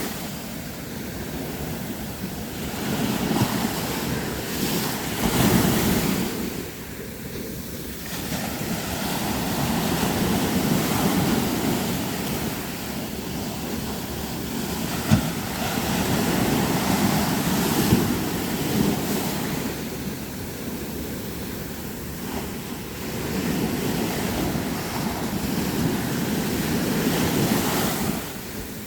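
Sea surf breaking on a beach, the rush of water swelling and falling back in slow surges every several seconds. Two brief sharp knocks come about halfway through.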